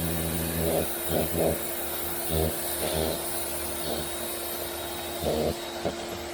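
Sun Joe electric pressure washer running with a steady hum, its oscillating turbo-tip spray hissing against a wooden deck with uneven surges.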